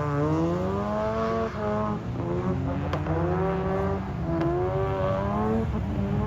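Drift car's engine revving hard on track, its pitch climbing steadily three times and dropping back in between as the throttle is worked through the slides.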